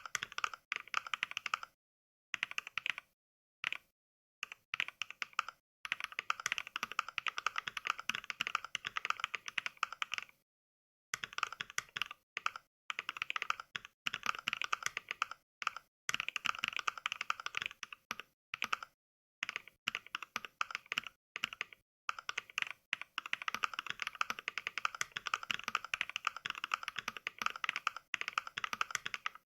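Fast touch-typing in rapid runs of keystroke clacks broken by short pauses of complete silence. The clacks are Mechvibes' simulated NK Cream mechanical-switch sounds, not the real keyboard's own.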